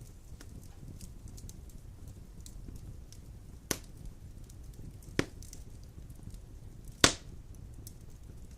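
Large wood logs burning in a fireplace: a steady low rumble of flame with faint small crackles, and three sharp pops from the logs, the last one the loudest.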